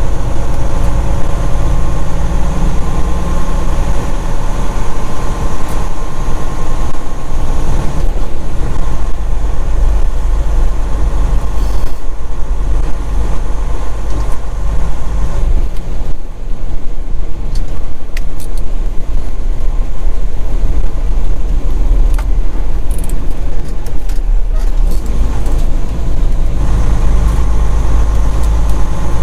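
Semi truck's diesel engine running, heard from inside the cab as a loud, steady low rumble. It eases about sixteen seconds in and picks up again near the end.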